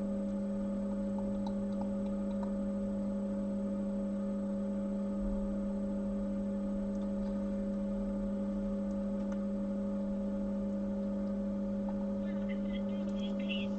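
Steady electrical mains hum: a low, unchanging tone with a fainter higher tone above it. Near the end a faint, thin voice comes in.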